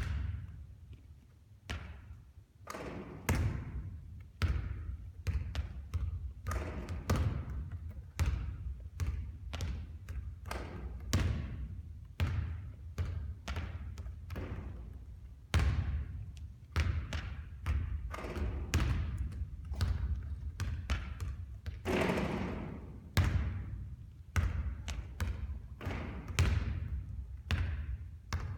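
Basketballs bouncing hard on a court floor during three-point shooting, one thud after another, often several a second, some ringing on briefly.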